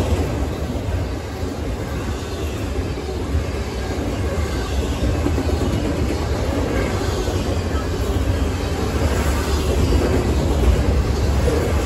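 Double-stack intermodal container freight train passing close by: a steady, loud rumble of steel wheels on rail.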